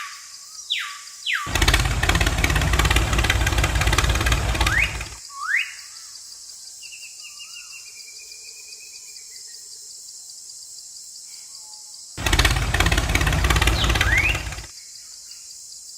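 A small motor runs loudly in two bursts, about three and a half seconds and then two and a half seconds long, with a rough buzzing rattle. In the quiet gaps there is a steady high hiss and a few short rising chirps.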